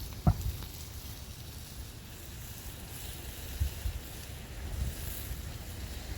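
Wind buffeting the microphone, an uneven low rumble, with a single sharp knock just after the start.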